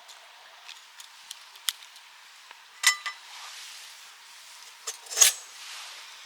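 Metal camp gear being handled: a few sharp clicks and clinks, one about three seconds in with a brief ringing tone, the loudest about five seconds in.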